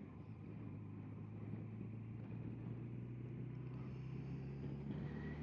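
Yamaha FJR1300 motorcycle's inline-four engine running steadily at a cruise, with wind and road noise over it.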